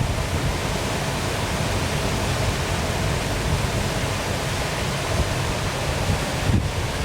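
Waterfall pouring steadily, a dense, even rush of falling water with a strong low rumble, and a brief low thump near the end.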